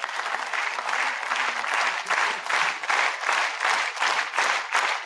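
Tennis crowd applauding, swelling quickly at the start and then holding steady.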